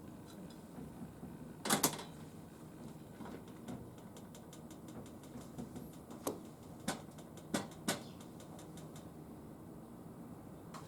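Handling sounds made of sharp clicks and knocks: a loud double knock about two seconds in, a fast run of faint ticks through the middle, and several louder single clicks between about six and eight seconds.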